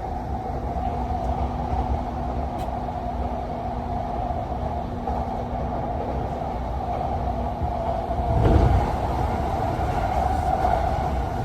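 A moving train running steadily, with a brief louder surge about eight seconds in.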